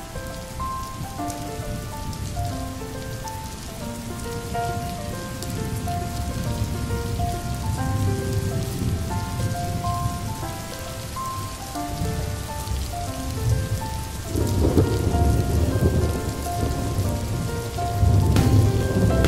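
Steady rainfall with a low rumble of thunder that swells about three-quarters of the way through, under a gentle melody of short held notes.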